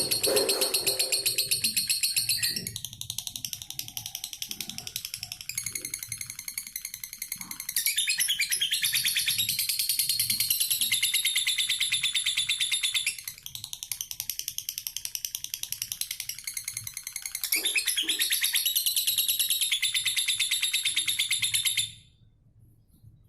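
Lovebird chattering: a continuous stream of fast, high, repeated chirps in long runs, with quieter stretches between them, stopping shortly before the end.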